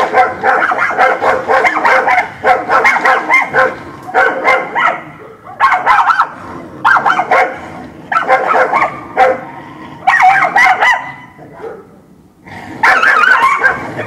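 Several dogs barking at each other in rapid, overlapping bouts of short sharp barks, with a brief lull about twelve seconds in before the barking starts up again.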